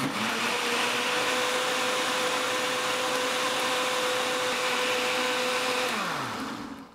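Countertop blender running steadily, mixing a liquid cream sauce of milk, cream and cream cheese. It is switched off about six seconds in and its motor winds down with a falling pitch.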